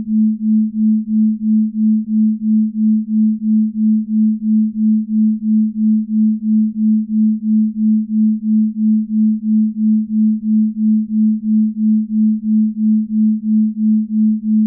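Binaural-beat sine tones: a single steady low pure tone that swells and fades evenly about three times a second, the beating of two slightly detuned tones.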